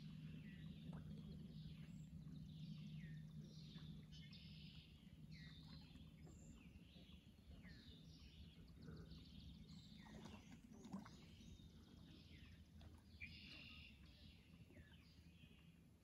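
Several small birds chirping and calling, short high notes overlapping one another throughout, with a low steady hum underneath that eases off toward the end.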